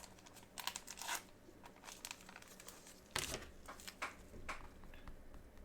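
Crinkling and rustling of trading-card packaging being handled and torn, in several short bursts.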